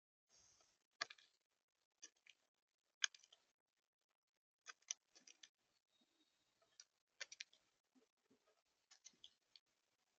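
Red-bellied woodpecker pecking at its food: irregular sharp clicks and taps in small clusters, the loudest about one and three seconds in.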